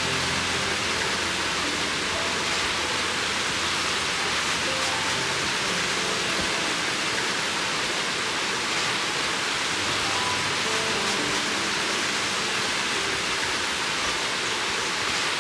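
Steady, even rushing noise with soft background music.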